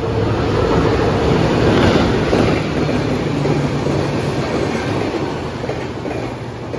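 Passenger train coaches running past close by, wheels clattering on the rails; loudest about two seconds in, then easing a little.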